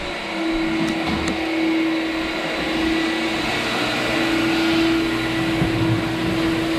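Rotary floor buffer running steadily with a 120-grit abrasive on a white oak hardwood floor, doing the final sanding pass. It makes a constant motor hum over an even abrasive rush.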